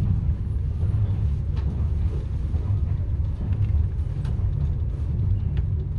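Steady low rumble of a passenger train running, heard from inside the carriage, with a few faint clicks over it.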